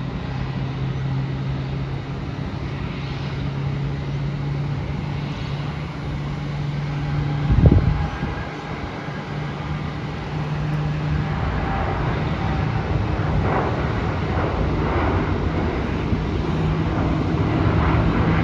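Jet aircraft engines running at the airport: a steady low hum under a wash of noise, growing a little louder in the second half. A single dull thump about eight seconds in is the loudest moment.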